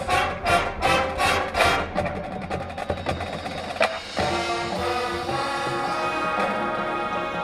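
High school marching band playing. Loud accented percussion hits come about three a second for the first two seconds, with a single sharp hit around four seconds in. After that the band holds a sustained chord.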